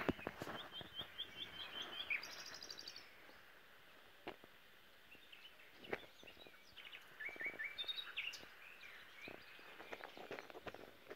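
Small birds chirping in quick runs of short, high notes, a few times over. Under them come soft rustles and clicks from a puppy pawing and chewing at a fabric quilt.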